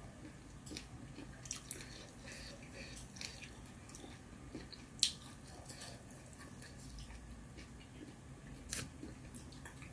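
A person chewing and biting food close to the microphone, with soft, irregular clicks and crunches and a sharper click about five seconds in.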